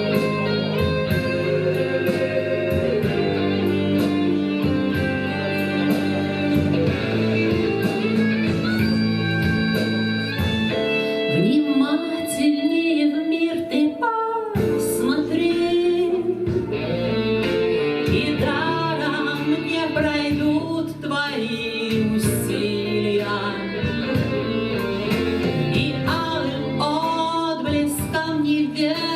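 A guitar plays on its own for about ten seconds, then a voice comes in singing over the guitar accompaniment: a live bard-style song.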